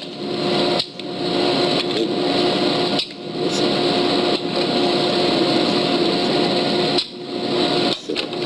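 Drill press running with a steady motor hum, its sound dropping briefly a few times, about a second in, at three seconds, and twice near the end.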